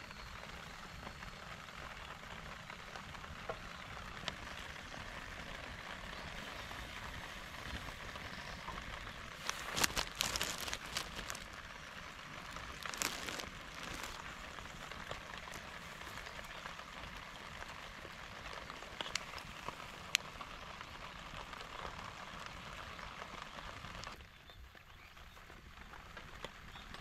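Steady rain falling, with a cluster of sharp clicks and knocks about ten seconds in and again about thirteen seconds in. The hiss drops a little near the end.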